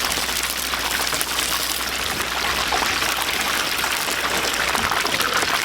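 Hot oil in a deep fryer sizzling with food in it: a steady, dense hiss. A low hum underneath fades out near the end.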